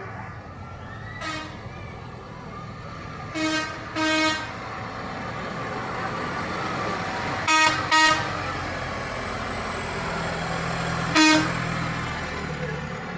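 A tractor horn gives short toots, a pair, then a quicker pair, then a single one, over a steady rumble of engines running.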